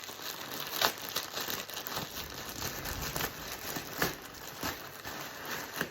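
Plastic packaging bag crinkling and rustling as it is handled and opened, with irregular sharp crackles throughout.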